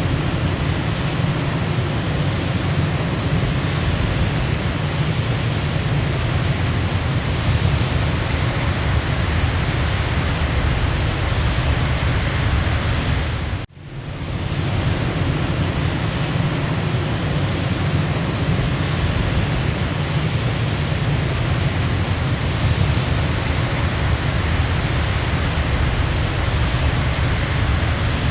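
Waterfall: a steady rushing roar of falling water, strongest in the low end. About halfway through it dips out for a moment and fades back in.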